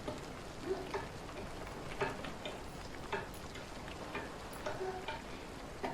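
Scattered light clicks and taps, about one a second, over a steady hiss.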